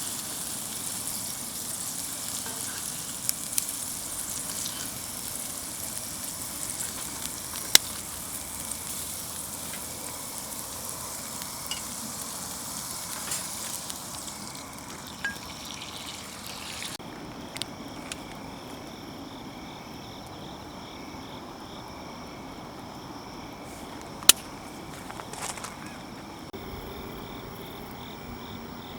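Oil sizzling in a cast-iron skillet over a campfire, with scattered sharp pops; the sizzle dies away suddenly a little over halfway through, leaving a faint steady high buzz and a couple more pops.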